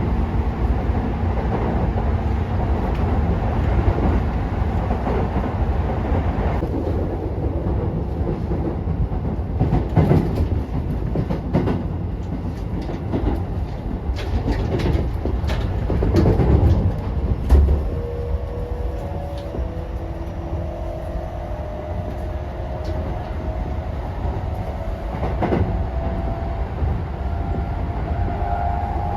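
Keisei 3000 series electric train running, heard from inside the car: a steady low rumble with wheels knocking over rail joints a few times. From about two-thirds of the way in, a rising electric whine from the traction motors as the train picks up speed.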